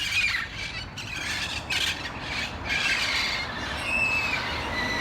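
A flock of parrots squawking: harsh, screechy calls repeated over and over, noisy.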